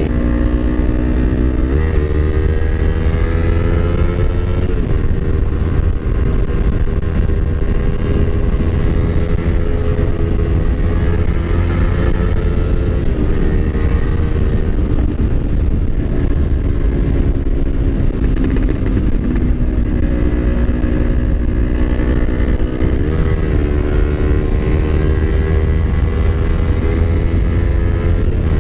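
Yamaha R25's 249 cc parallel-twin engine running under way. The engine note climbs slowly and jumps in pitch briefly a few times, over a steady low rumble.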